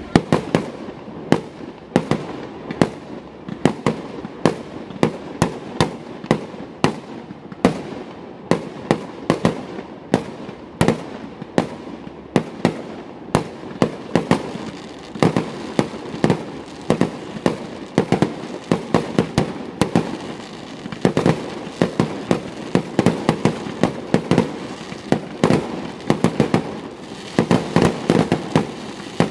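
New Year's Eve fireworks and firecrackers going off without pause: many sharp bangs and cracks, several a second, over a continuous rumble of more distant explosions.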